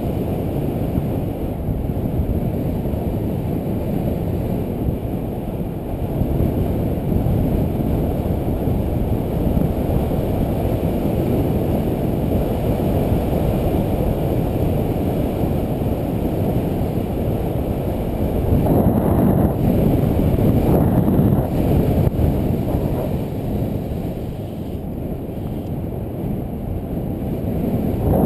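Wind rushing over a GoPro microphone on a road bike descending at speed: a steady low rumble, louder for a couple of seconds about two-thirds of the way through and again at the end.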